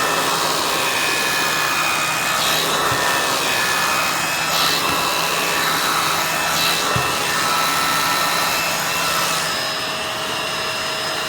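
Bissell MultiClean Allergen Pet upright vacuum (model 2999) running steadily with a high whine. Its pet-hair attachment is being rubbed over a surface, with a few brushing strokes, and the tone shifts slightly near the end.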